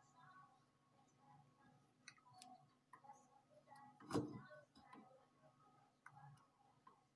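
Faint, irregular small clicks and light taps, with one louder knock about four seconds in.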